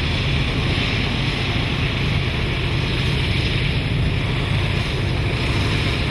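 Train running by with a steady low rumble and a broad rolling hiss, unbroken throughout.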